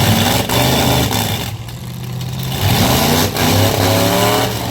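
Truck engine running hard. It eases off about a second and a half in, then revs back up, its pitch rising.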